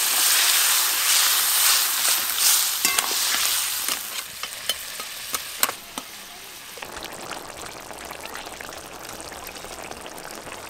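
Water poured into hot oil in a wok of crab masala sizzling loudly, with a spatula clicking and scraping against the wok as it is stirred. The sizzle fades over about five seconds to a quieter, steady simmer as the curry comes to a boil.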